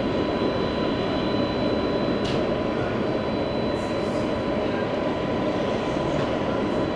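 Dassault Falcon 900's three turbofan engines running with a steady rumble and two constant whining tones, one high and one lower.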